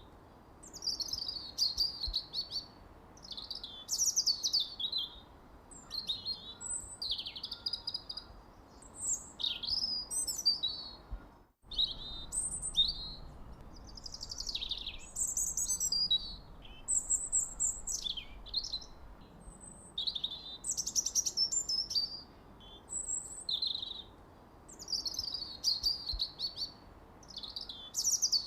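Birds chirping almost without pause: high, quick chirps and short downward-sweeping phrases, repeated in bouts a second or two apart, over a faint steady hiss. The sound drops out for a split second about eleven and a half seconds in, as at a splice in the recording.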